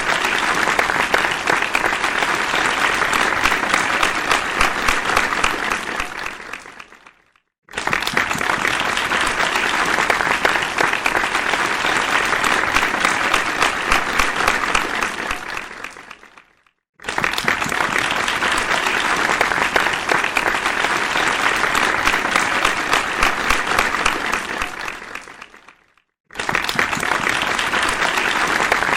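Crowd applause, many people clapping at once, in rounds of about nine seconds. Each round starts suddenly and fades out over a second or two; after a brief silence the next begins.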